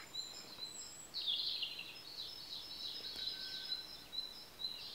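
Birds chirping and twittering, many short high calls overlapping, growing louder about a second in.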